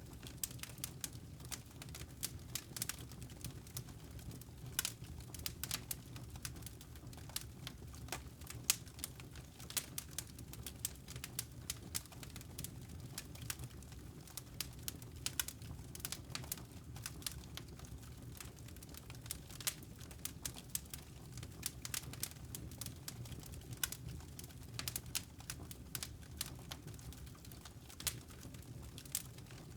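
Wood fire crackling in a fireplace: irregular snaps and pops, a few of them louder, over a steady low rumble.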